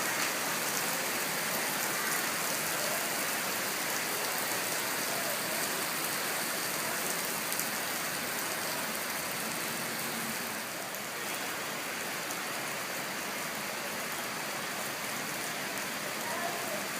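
Steady rain falling on hard surfaces, an even, dense hiss that eases slightly about two-thirds of the way through.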